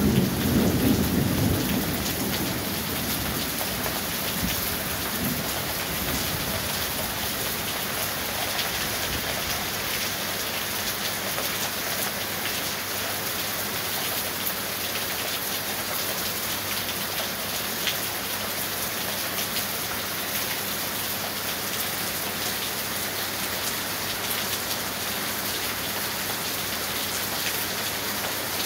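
Heavy rain pouring steadily onto a street, an even hiss throughout. A rumble of thunder is fading out about two seconds in.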